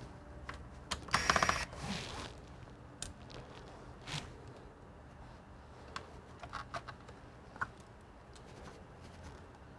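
Clicks and small knocks of hand tools and plastic and metal computer parts being handled, with a short burst of rapid ratchet-like clicking about a second in and scattered single ticks after.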